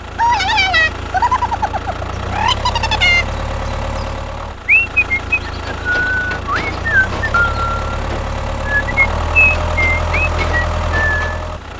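A steady low engine-like hum. Over it come three squeaky, swooping calls in the first three seconds, then a string of short high whistle-like chirps.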